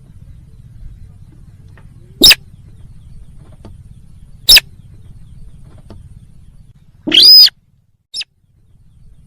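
Sintar bird lure call: sharp, loud single call notes about two seconds apart, then a longer call arching up and down about seven seconds in and a faint short note after it, over a steady low hum.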